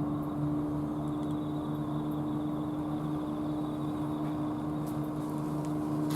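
A steady machine hum: one unchanging low tone with a lower, evenly pulsing throb beneath it.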